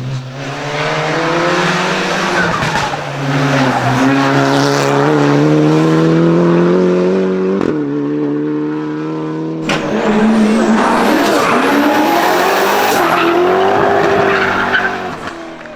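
Hill-climb race car accelerating hard, its engine pitch rising through several gear changes. About ten seconds in comes a sharp crack, then tyres squealing while the engine keeps running, and the sound fades near the end.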